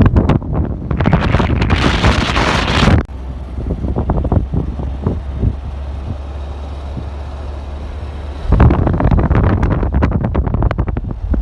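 Wind buffeting the microphone in loud, uneven gusts. About three seconds in it drops to a steadier, quieter low rumble, and the buffeting comes back about eight and a half seconds in.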